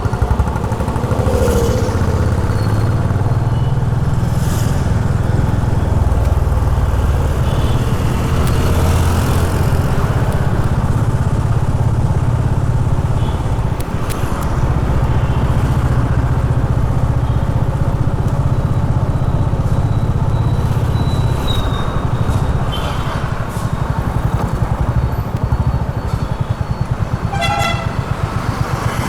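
Honda H'ness CB350's single-cylinder engine running while riding, its low note easing after about twenty seconds. A vehicle horn sounds briefly near the end.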